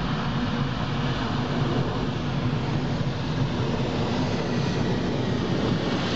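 Boeing 737-800 on its landing roll on a wet runway: a steady, loud rumble of the engines and the rolling airliner.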